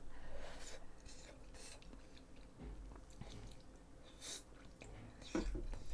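A person chewing food close to the microphone, quiet and soft, with a couple of brief louder mouth sounds near the end.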